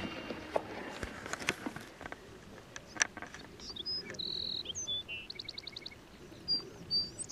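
Small birds chirping over faint outdoor background, with short high whistled notes and a fast trill of repeated notes in the second half. A few sharp clicks come in the first three seconds.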